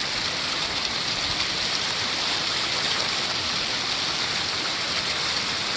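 Waterfall splashing steadily with water running strongly, an even hiss of falling water.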